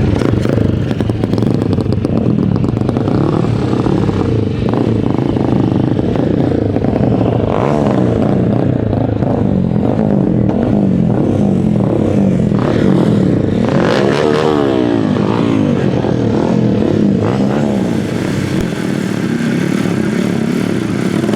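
Several dirt-bike engines running and revving together, their pitches rising and falling and crossing one another.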